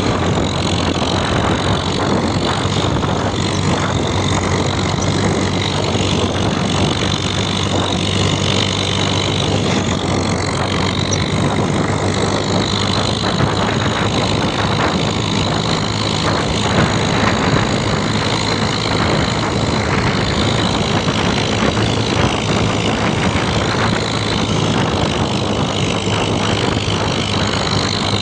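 Tractor engine running at a steady speed, with a dense, even noise over it.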